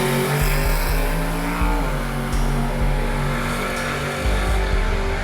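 A car engine revved up and held at high revs. Its pitch holds steady, then steps down slightly about two seconds in. A low, regular thumping runs underneath.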